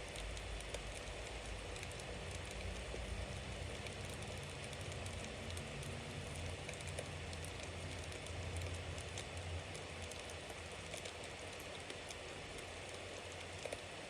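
Bonfire burning, with a steady hiss of flames, many small scattered crackles and pops, and a low rumble underneath.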